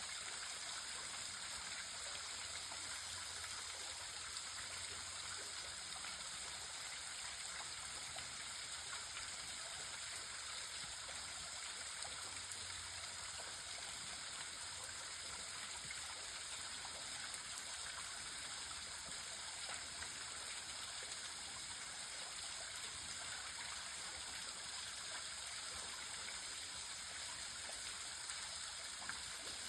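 Waterfall at low flow, a small trickle of water falling with a steady, even splashing.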